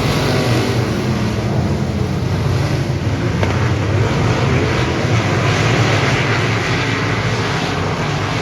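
Dirt modified race car engine running steadily, with wind noise on the microphone.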